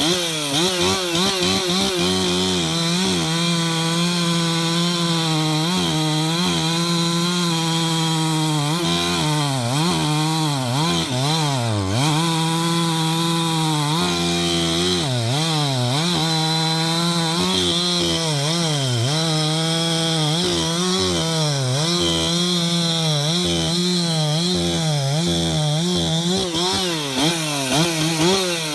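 Husqvarna 372XP two-stroke chainsaw running at high revs and cutting a large log, its pitch repeatedly sagging under load and picking back up.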